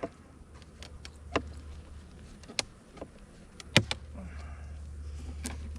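Wooden beehive frames and boxes being handled during a hive inspection: about five sharp clicks and knocks spread out over a steady low hum.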